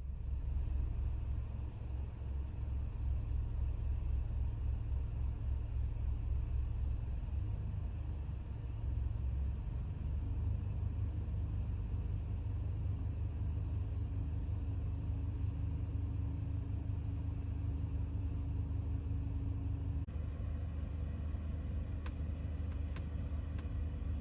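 Low, steady rumble of the Toyota HiAce van running, with a faint hum joining about halfway through and a few light ticks near the end.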